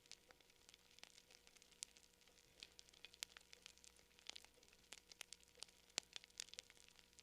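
Wood fire crackling faintly: irregular sharp snaps and pops, several a second, a few louder ones standing out, over a faint steady hum.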